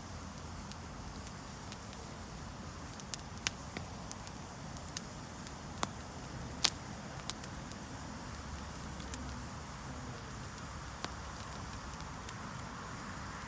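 Wood campfire crackling: a steady soft hiss with scattered, irregular sharp pops, the loudest a little past the middle.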